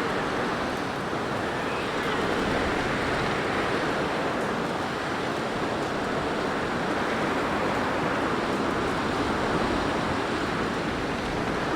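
Blizzard wind blowing steadily, a dense rushing noise with gentle swells in strength.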